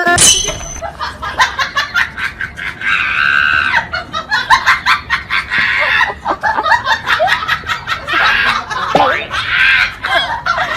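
Loud, breathless laughing broken by shrieks, in uneven bursts that peak several times.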